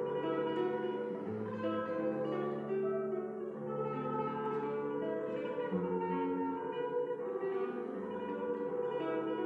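Solo classical guitar playing a continuous flow of plucked notes over changing bass notes.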